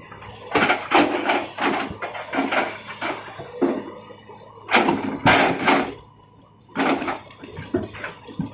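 Irregular knocks and clattering scrapes, roughly one a second, over a faint steady hum, with a short lull about six seconds in.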